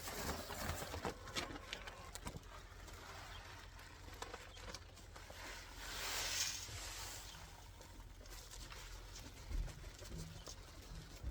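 Chicken feed being poured from a bag into a feeder: faint rustling and light clicks, with a soft hiss of grain running about six seconds in.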